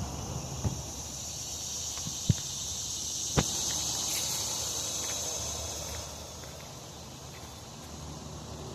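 Insects droning in the woods: a steady high buzz that swells and then fades off after about six seconds. Footsteps go through it, with three sharp snaps in the first few seconds, over a low rumble.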